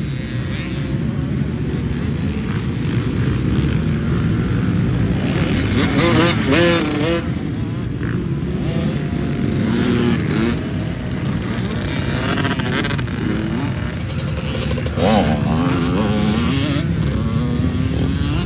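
Dirt bike engines on a motocross track, their pitch climbing and dropping back again and again as they rev. The clearest rises come about six seconds in and again about fifteen seconds in.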